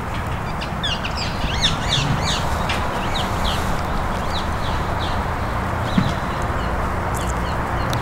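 Birds calling: a quick run of short, high chirps, thinning out after about five seconds, over a steady low background rumble. A brief low thump comes near six seconds in.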